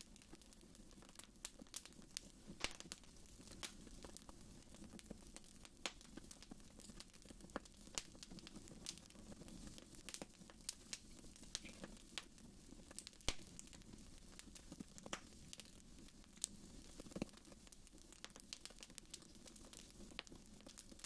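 Fire crackling in a fireplace: faint, irregular pops and snaps, a few sharper than the rest, over a low steady flame noise.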